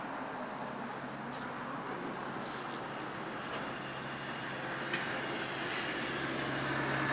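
Steady background noise of a motor vehicle running, with a low steady hum that grows a little louder near the end, and one faint click about five seconds in.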